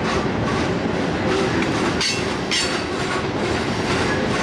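Freight train rolling past, its wheels running steadily over the rails with clickety-clack, with two brief high screeches about two seconds in.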